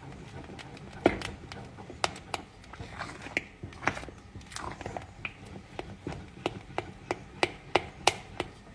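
A utensil knocking and scraping against a saucepan while stirring a custard filling as it thickens on the heat: irregular sharp clicks, about one to two a second, coming faster near the end.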